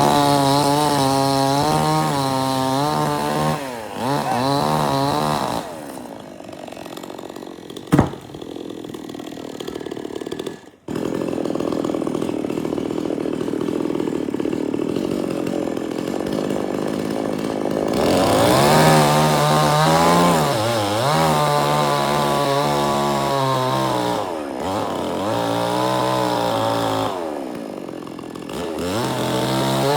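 Two-stroke chainsaw revving hard in repeated spells, its engine note dipping and recovering as it bites into wood, and dropping to a lower steady run in between. A single sharp knock comes about eight seconds in.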